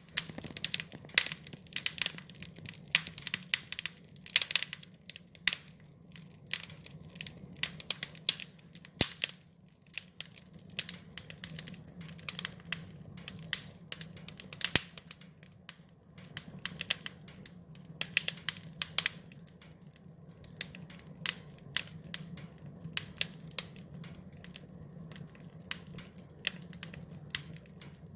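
Wood fire crackling, with irregular sharp pops and snaps, some in quick clusters, over a low steady hum.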